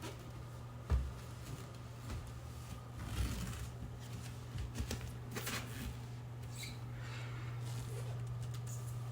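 Low steady hum, plausibly from a robot vacuum cleaner, with a few short knocks and rustles of it being handled. The sharpest knock comes about a second in.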